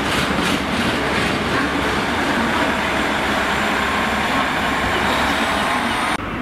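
Empty freight wagons running fast through a station, with a steady rumble of wheels on rail and a rhythmic clatter at first; the high hiss cuts off suddenly near the end.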